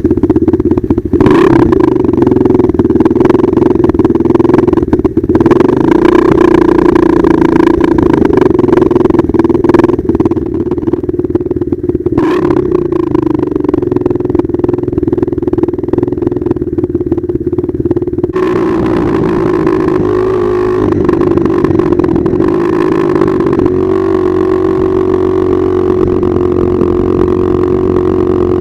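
Pit bike engine running loud and steady at a high, held pitch under way, its sound changing character about two-thirds of the way through.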